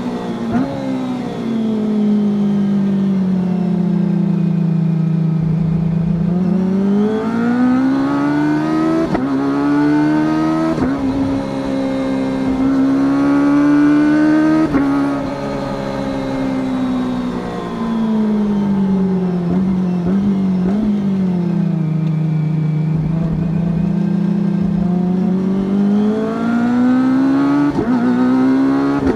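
Kawasaki Ninja ZX-25R's 249 cc inline-four through an Akrapovič racing-line exhaust, ridden downhill. The engine note dips as the bike slows and climbs again as it pulls away, several times over, with a few short breaks in the note along the way.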